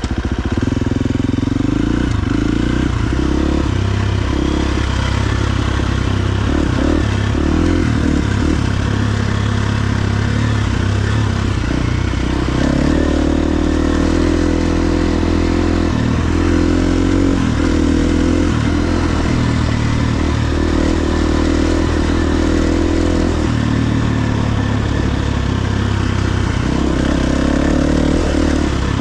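KTM 350 XC-F dirt bike's single-cylinder four-stroke engine running under way, its note rising and falling with throttle and gear changes.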